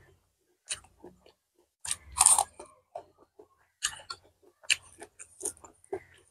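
A person chewing a mouthful of rice and braised pork intestines close to a clip-on microphone: irregular bites and chews, the loudest about two seconds in.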